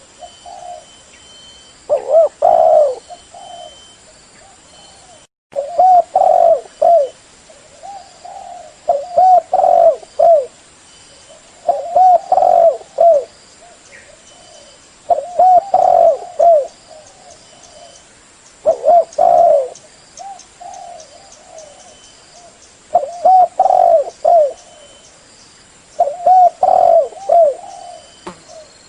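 Spotted dove calling loudly: a repeated cooing phrase, about eight phrases in all, one every three seconds or so.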